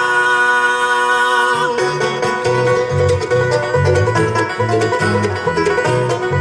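Live bluegrass band playing an instrumental passage. A chord is held for about the first two seconds, then fast banjo picking takes over, with bass notes keeping a beat of about two a second.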